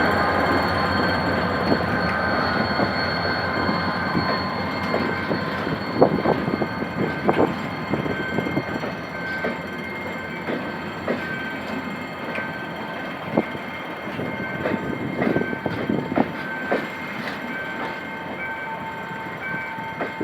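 Diesel-hauled passenger train, led by a GM GT22CW-2 locomotive, rolling away from a station. Wheels clack over rail joints with a thin high squeal, and the rumble fades as the train moves off.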